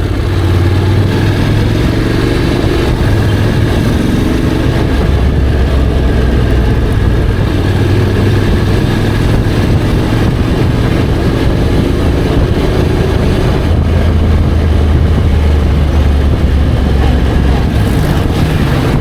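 Honda X-ADV 750's parallel-twin engine running under way, with steady road and wind noise. The engine note rises early on and shifts pitch a few times as the speed changes.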